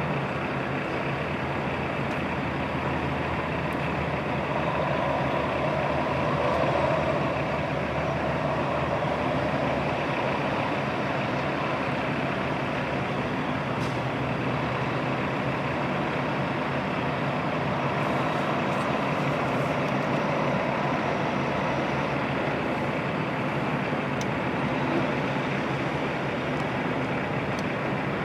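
Heavy diesel truck engine running steadily, swelling briefly about six seconds in.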